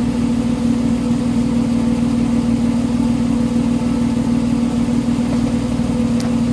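Ford Ranger's 4.0 L SOHC V6 idling steadily through its new exhaust: an even, unchanging note with no revving. A single faint click sounds near the end.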